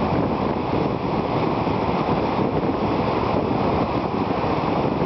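Steady rushing of whitewater rapids.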